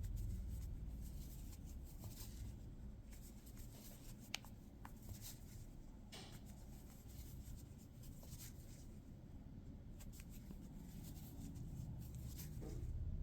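Faint rustling and soft ticks of a crochet hook working yarn through single crochet stitches, with one sharper click about four seconds in.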